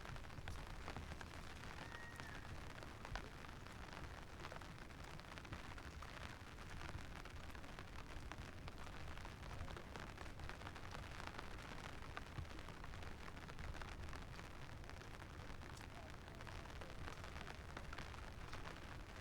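Steady rain falling, with a low rumble underneath and many small drop clicks. A short high whistle-like note sounds about two seconds in.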